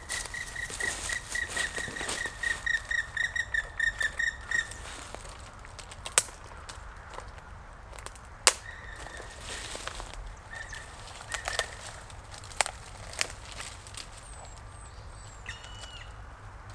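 A bird calling a rapid run of clear, even notes, about six a second, for the first four to five seconds, then a few single notes. Scattered sharp knocks and clicks are heard in between, two of them louder.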